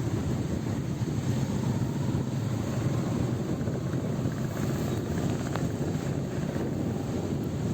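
Motorcycle engine running at a steady cruise, a continuous low drone, with wind noise on the microphone.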